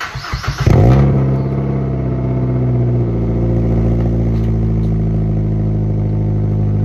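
A 2005 Mazda3's four-cylinder engine is cranked by the starter and catches within a second. It flares briefly, then settles to a steady idle through its newly welded exhaust.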